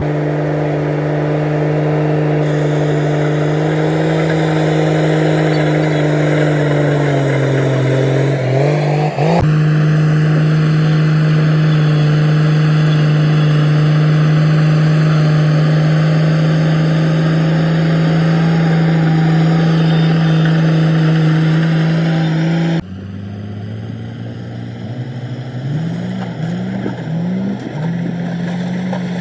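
Komatsu D58E bulldozer's diesel engine running steadily, its pitch sagging briefly about eight seconds in. After an abrupt change about twenty-three seconds in it runs quieter, with a few short rises in engine speed near the end.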